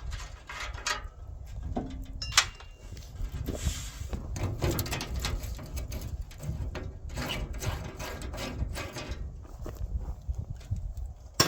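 Wrench and other hand tools working bolts on an engine mount, giving irregular metal clicks, clinks and knocks, with a sharp clank about two and a half seconds in and another near the end.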